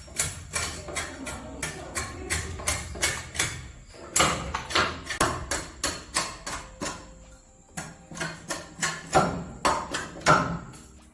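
A rapid series of sharp knocks, about three to four a second and uneven in strength, with a short lull past the middle and a few louder knocks near the end.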